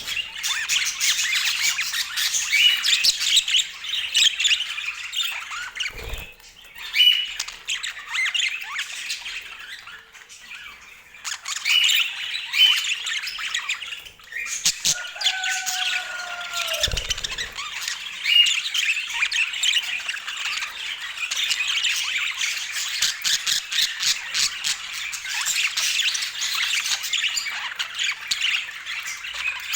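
Budgerigars chattering and warbling without a break, a dense stream of quick chirps, clicks and squawks.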